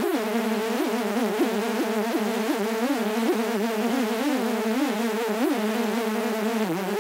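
Mosquito buzzing: a continuous wing whine whose pitch wavers slightly up and down.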